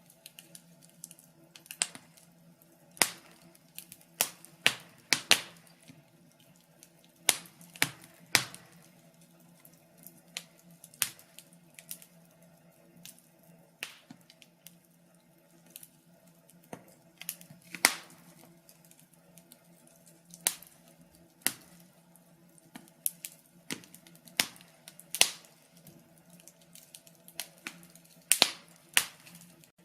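Wood fire crackling: irregular sharp pops and snaps, from single cracks to quick clusters, over a faint steady low hum.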